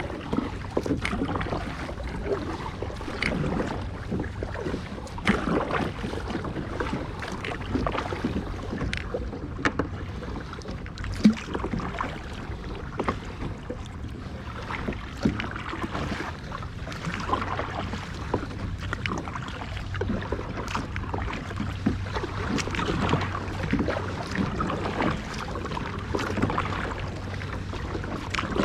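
Kayak moving across the sea: water splashing and lapping irregularly against the hull, over a steady low hum.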